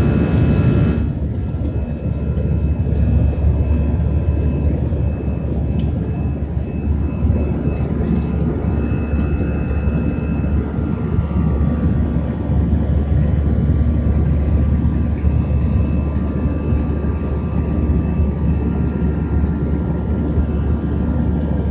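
Jet airliner heard from inside the passenger cabin: the engines and airflow make a steady, loud low drone, with a few faint thin tones above it.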